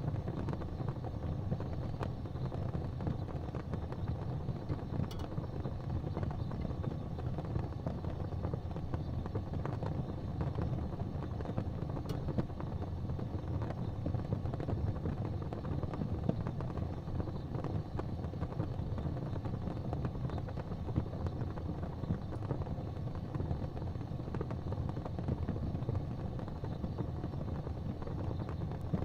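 Fireplace fire burning with a steady low rumble and a few faint, scattered crackles.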